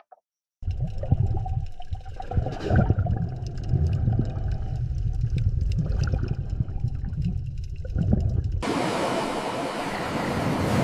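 Rushing water with a low rumble and scattered knocks, cutting abruptly about eight and a half seconds in to a brighter, steadier rush.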